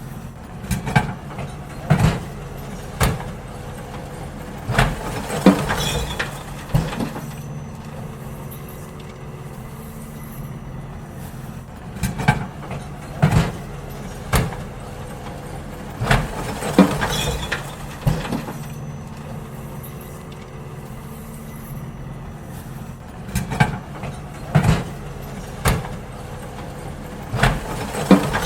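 Garbage truck engine running steadily while it empties rubbish bins, with groups of loud clanks and bangs every few seconds as the bins are tipped.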